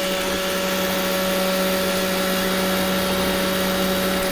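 Roomba robot vacuum running, a steady whirring hum with an even tone from its motors and brushes.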